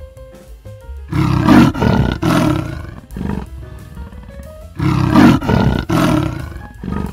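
Big cat giving a sawing call: two runs of hoarse, rasping grunts, about two a second, with the first starting about a second in. Background music plays throughout.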